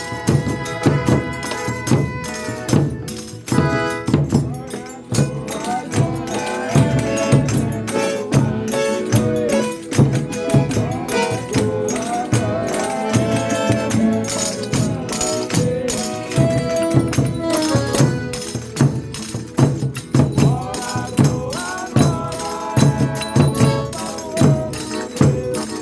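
Folia de Reis music: voices singing a slow devotional chant over a steady shaken-and-struck tambourine rhythm, with long held notes.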